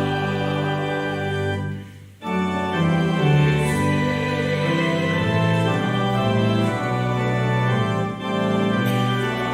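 Organ playing slow, sustained chords, with a brief break in the sound about two seconds in before the chords resume.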